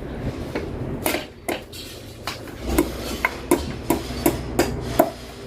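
Light metallic clicks and taps from steel engine parts, such as piston rings and tools, being handled on a workbench. The clicks are scattered at first, then come in a quick, even run of about three a second, each with a short ring.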